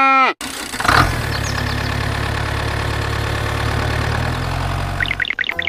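The end of a cow's moo cuts off at the very start; about a second in, an engine starts with a sharp knock and settles into a steady low idle, which drops away shortly before the end.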